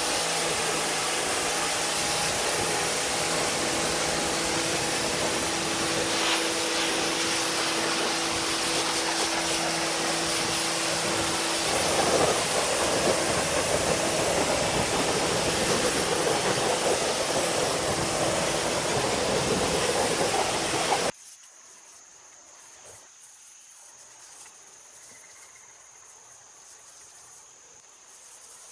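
Pressure washer spraying with a steady hiss over the hum of its pump motor, the spray getting a little louder about halfway through. It cuts off suddenly, leaving faint crickets chirping in a steady high trill.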